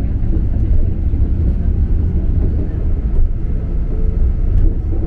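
Enoshima Electric Railway train running along the track, heard from inside the driver's cab: a steady low rumble of wheels on rails and motors, with a few faint clicks.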